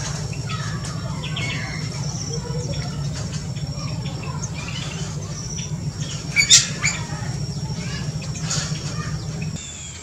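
Aviary birds calling: scattered short high calls, the loudest a sharp call about six and a half seconds in, over a steady low hum that stops just before the end.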